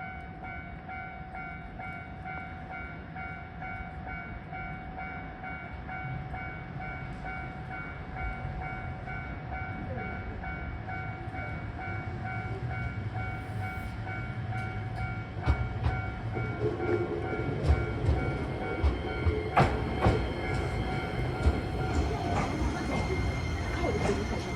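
Shizuoka Railway electric train arriving at the station, its rumble growing louder, with wheels clicking over rail joints from about fifteen seconds in and faint brake squeal near the end. A steady pulsing electronic tone rings throughout.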